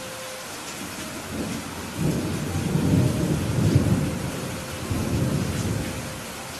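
Steady rain falling, with a low rolling rumble of thunder that builds about two seconds in, peaks midway and fades away near the end.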